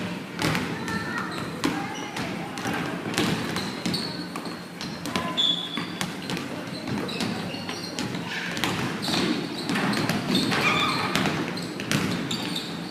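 Basketballs bouncing on a court during a dribbling drill: many overlapping, irregular thuds, with players' voices calling out.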